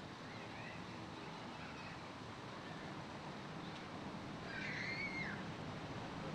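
A few short, wavering bird calls, the clearest and loudest about four and a half seconds in, over a steady low rumble of background noise.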